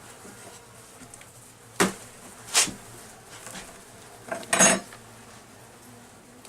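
Three sharp clacks and knocks of hive parts and comb being handled, the last one longer and rattling, over a faint steady hum of honeybees.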